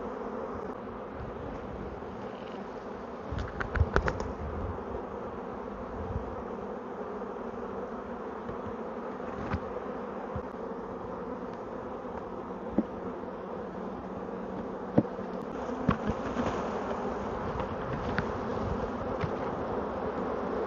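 Honeybee swarm buzzing steadily all around. A cluster of sharp knocks comes about four seconds in, and a few single knocks follow later.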